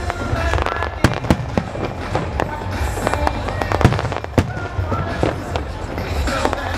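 Aerial fireworks display: repeated sharp bangs from bursting shells, several in some seconds, over music.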